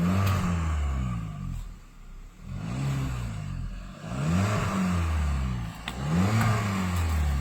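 Car engine revved in four blips of the gas pedal, each rising and then falling back over a second or two, heard at the exhaust.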